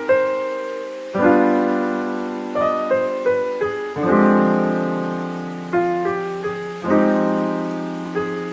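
Piano playing a slow instrumental piece: a chord struck every few seconds and left to ring and fade, with short melody notes picked out between the chords.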